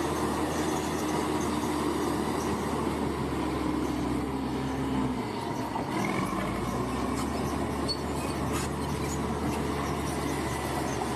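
Large crawler bulldozer at work: its diesel engine runs steadily under load, with a brief drop in the low engine note about five seconds in, over a constant mechanical clatter.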